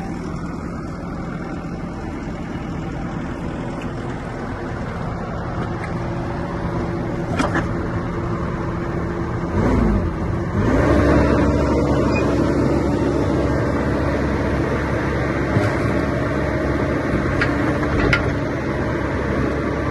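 Bobcat E50 mini excavator's 49 hp Kubota diesel engine running steadily; about halfway through its pitch dips briefly, then climbs to a higher speed and it runs louder from then on. A few faint clicks sound over it.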